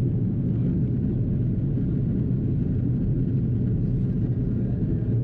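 Steady low rumble inside the cabin of an Airbus A330-300 in descent, from its Rolls-Royce Trent 700 engines and the airflow over the fuselage, with a constant low hum under it.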